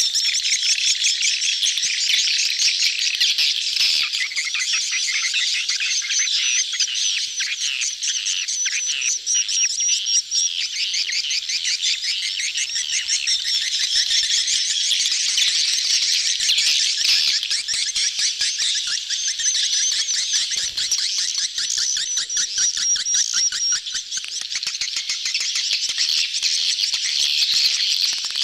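A dense crowd of edible-nest swiftlets twittering and chirping without pause, a colony in mating season. This is a lure call of the kind played to draw swiftlets into a nesting house.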